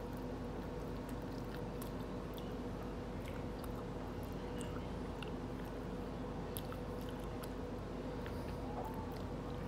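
Close-up biting and chewing of fried chicken: scattered short, wet mouth clicks and smacks, over a steady low hum.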